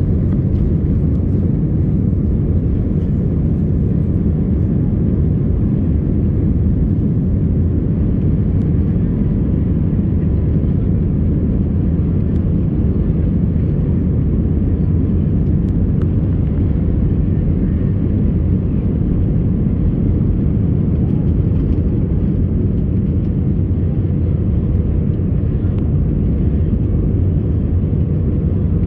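Airbus A319 airliner heard from inside the cabin during take-off: a steady, even, deep rumble of the jet engines and rushing air.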